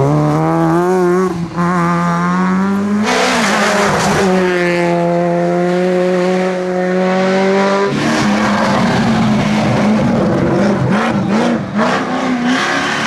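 Rally car engine running hard at high revs, holding a steady pitch for several seconds at a time, with abrupt changes in pitch about 1.5, 3 and 8 seconds in as the driver lifts and changes gear.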